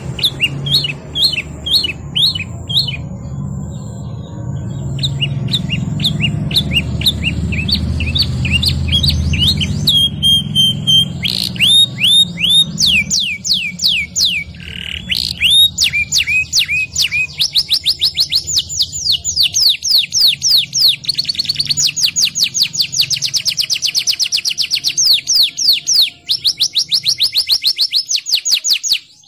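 Domestic canary singing a long rolling song: fast trills of one note repeated many times, switching from one trill to the next without pause. A low hum runs underneath for the first two-thirds.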